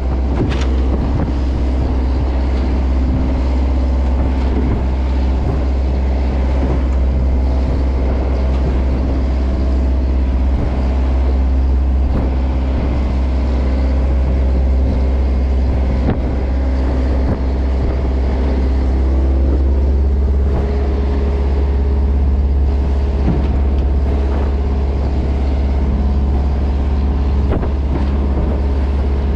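A Japanese bottom trawler's inboard diesel engine running steadily, a deep, even drone with a few faint knocks.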